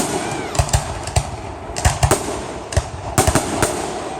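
Fireworks display: a rapid, irregular string of sharp bangs, about a dozen in four seconds, over continuous crackling.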